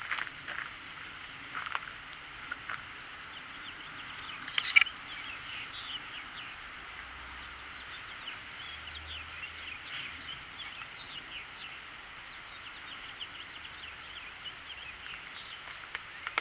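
Birds chirping, many short quick chirps, over a steady hiss, with a sharp knock about five seconds in.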